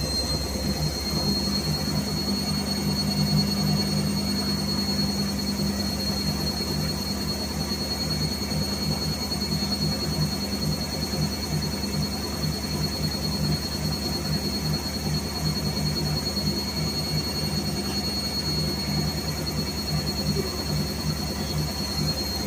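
Whirlpool washing machine running at a steady speed: a continuous whir with a high, steady whine over a low hum.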